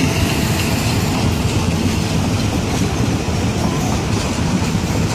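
Krakatau Ekspres passenger coaches running past close by, their wheels rolling steadily over the rails.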